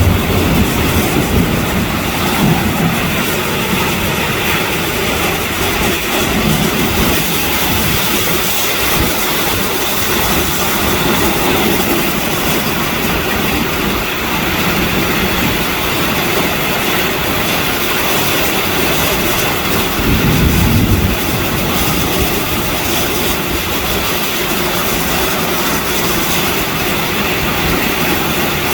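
Torrential rain falling heavily, a steady loud hiss, with occasional low rumbles, the strongest about twenty seconds in.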